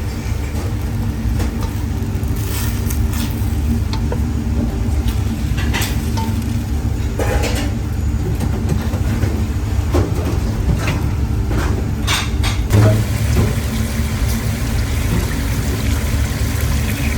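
Chicken frying in a pan, stirred now and then with a utensil that scrapes and knocks against the pan several times, over a steady low rumble.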